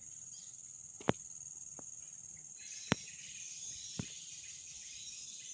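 Steady high-pitched insect shrilling, with three sharp clicks spread through it.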